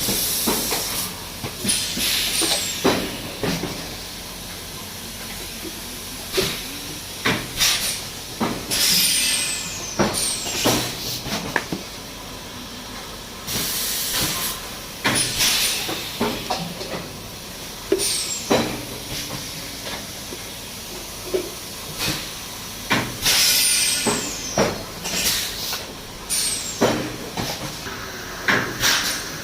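Plastic bottle moulding machine working: repeated loud hisses of compressed air every few seconds, some with a high falling whistle, between short clunks.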